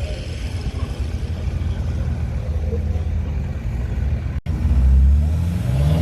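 Off-road vehicle engine running with a low rumble; after an abrupt cut about four and a half seconds in, an engine is louder and revving up, its pitch rising.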